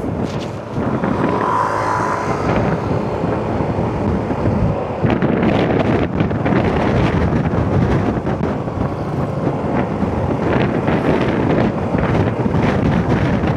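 Motorcycle riding in traffic: wind buffeting the rider's microphone over the motorcycle's engine and the road and traffic noise around it. A short steady high tone sounds about one and a half seconds in.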